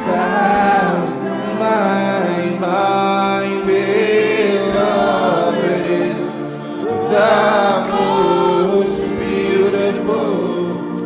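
Slow worship singing: voices hold long, gliding phrases over steady sustained accompaniment.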